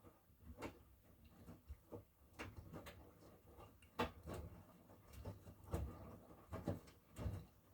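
Miele washing machine running: irregular soft knocks and clicks, about one or two a second, as the drum turns, over a low steady hum.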